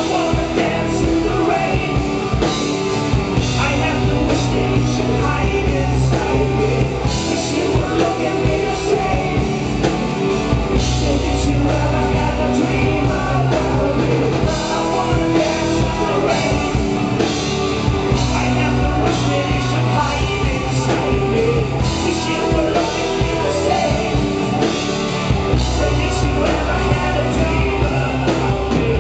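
Live rock band playing loudly, with a steady drum beat under bass and guitars.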